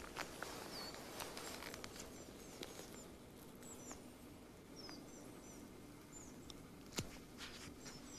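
Faint, high, thin chirps of small birds, short calls repeating every second or so. A few soft clicks, with a sharper one about seven seconds in.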